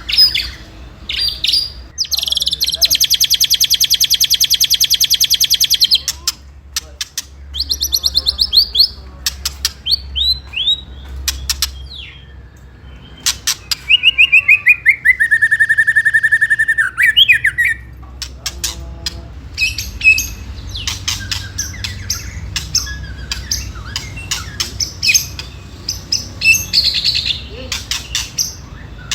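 White-rumped shama giving its agitated "ketrekan" rattle: a long, very fast, high rattle about two seconds in that lasts some four seconds, then a run of rapid notes falling in pitch near the middle, and many sharp clicking chips and short whistles in the second half.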